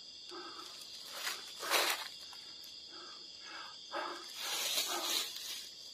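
Night insects such as crickets trilling steadily in a high, unbroken drone, with a few faint short rustles and knocks over it.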